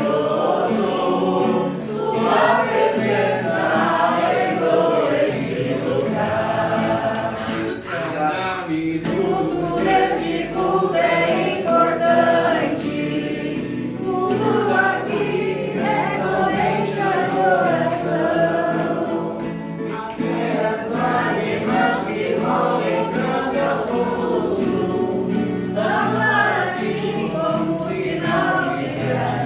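A group singing a Christian worship song together, with a guitar playing along.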